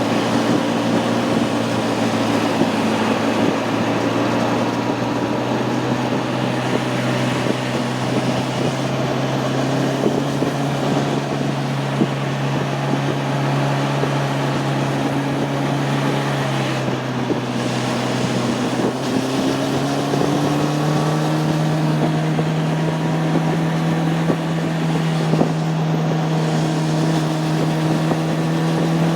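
Honda CB600F Hornet's inline-four engine pulling at steady road revs, with wind rushing over the microphone. A little past halfway the engine note dips briefly, then climbs to a higher steady pitch.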